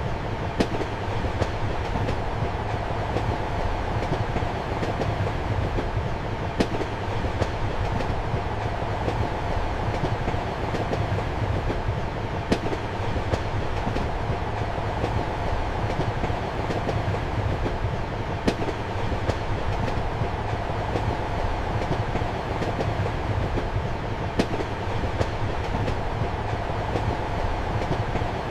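Steady rumble and hum of a train heard from inside a compartment, with sharp wheel clacks over the rail joints now and then, the loudest about every six seconds.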